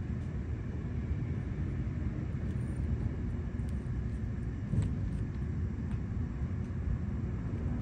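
Steady low road rumble heard from inside a moving car, with a few faint ticks.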